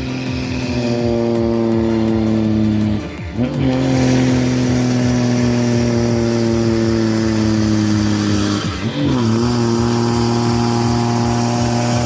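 Heavy truck engine pulling under load, its pitch slowly sagging as it labours. Twice, about three and nine seconds in, it dips briefly during a gear change and comes back at a higher pitch.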